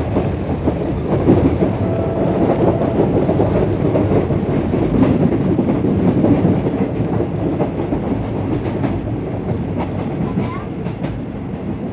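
Diesel-hauled passenger train running, heard from an open coach window: a steady rumble of wheels on the rails, with a run of sharp clicks of the wheels over rail joints near the end.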